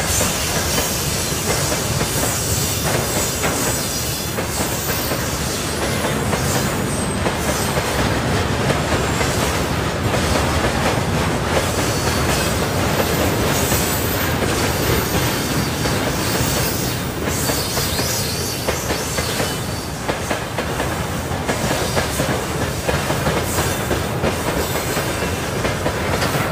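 A freight train of tank wagons rolling past at close range: steady wheel and rail noise with the clatter of wheels passing over rail joints.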